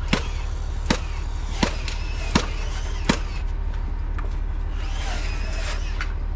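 Crane truck's diesel engine running steadily under five sharp, evenly spaced knocks about three-quarters of a second apart, then a brief high wavering squeal near the end.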